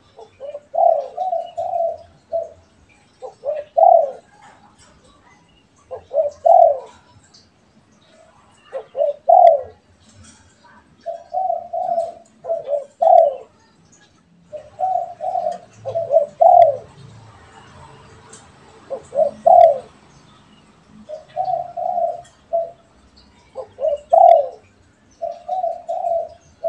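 Derkuku doves cooing back and forth: repeated phrases of a few short coos, each ending in a stronger note, with a new phrase every two to three seconds.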